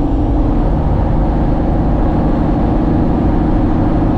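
Truck engine running steadily under way, a constant low drone.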